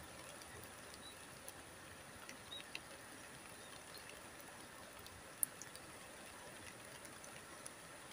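Faint steady hiss of river water and light drizzle, with scattered soft ticks and one sharper click about five seconds in.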